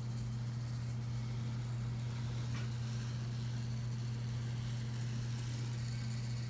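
Battery-powered toy train running around its track, its small motor giving a steady low hum.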